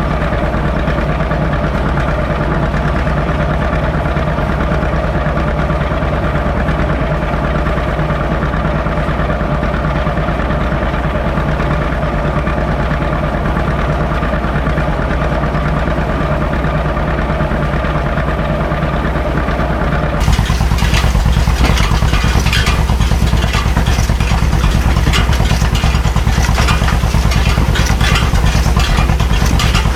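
Tractor engine running steadily. About twenty seconds in the sound changes suddenly: it gets louder, and a dense rattling clatter joins the engine.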